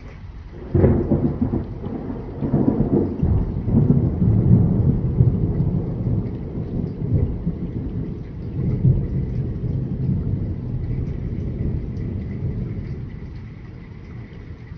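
Thunder: a sudden crack about a second in, then a long rolling rumble that swells and slowly fades over about ten seconds.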